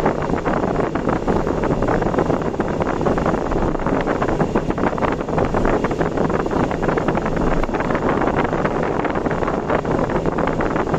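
Steady wind and road noise from a vehicle travelling at speed on an expressway, with wind buffeting the microphone.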